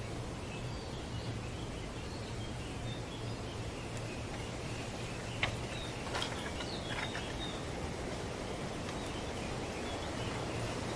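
Outdoor ambience of steady wind noise with a low hum underneath and scattered faint bird chirps. A sharp click and a few louder calls come around the middle.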